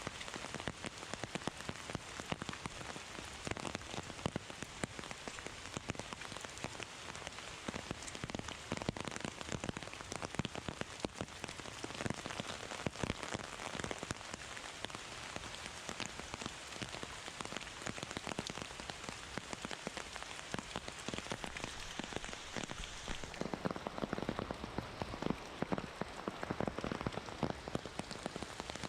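Heavy rain falling steadily, a dense patter of individual drops over an even hiss, with a few seconds of heavier, lower-pitched drop hits near the end.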